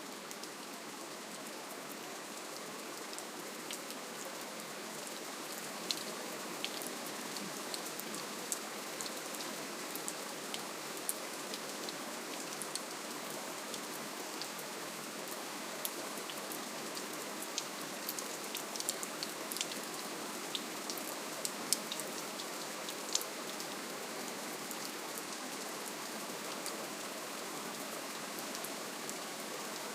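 Steady, gentle rainfall: a soft, even hiss with scattered sharp drop ticks.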